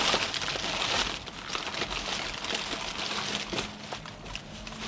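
Plastic bags and plastic-packaged toys rustling and crinkling as they are handled and rummaged through, with scattered small clicks and knocks.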